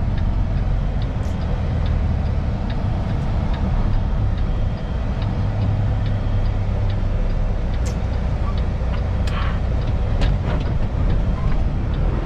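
Kenworth semi-truck's diesel engine running under way, heard from inside the cab as a steady low drone, with scattered light ticks and a few sharper clicks.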